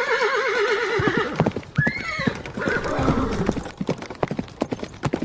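A horse whinnying with a fast quavering pitch, followed by a run of sharp knocks and a short rising-and-falling call about two seconds in.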